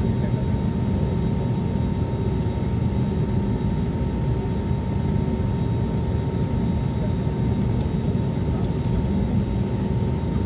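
Steady cabin noise of an Airbus A320neo under way, engines and airflow, with a steady thin whine over the low rumble.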